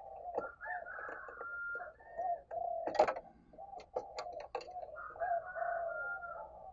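Spotted doves cooing, with repeated low, soft coo notes overlapping one another. A single sharp click about three seconds in stands out as the loudest sound.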